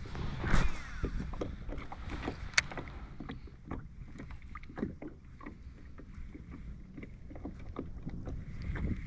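Irregular clicks and light knocks of fishing gear and movement in a small fishing boat, with wind rumbling on the microphone; sharper snaps come about half a second in and again about two and a half seconds in.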